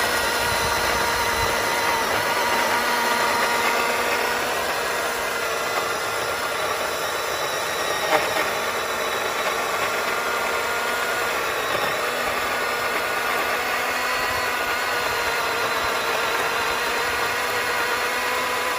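Milwaukee Fuel cordless chainsaw running steadily at one pitch through a long cut in a big trunk, with a short knock about eight seconds in.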